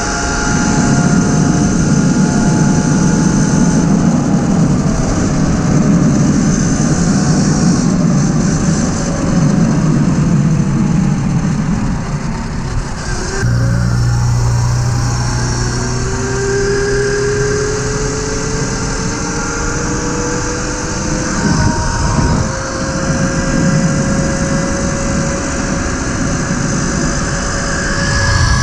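Tuttio electric dirt bike being ridden, its electric motor whining under heavy wind and tyre rumble. The whine falls in pitch as the bike slows about twelve seconds in, then rises again as it speeds back up.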